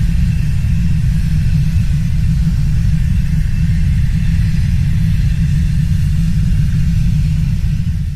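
Loud, steady deep rumble with little sound above it.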